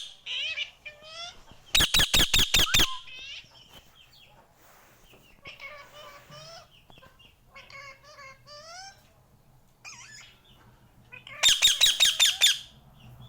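Indian ringneck parakeet screeching in two loud bursts of rapid shrill notes, about six or seven each, one about two seconds in and another near the end, with softer chattering calls in between.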